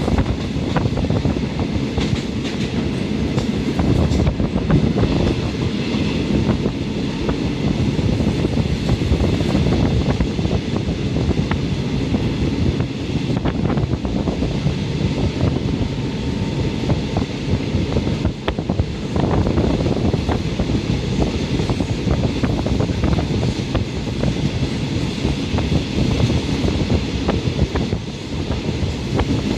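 Passenger train running steadily along the track, heard from inside the carriage: a continuous rumble of wheels on rails with a knock now and then as the wheels pass rail joints.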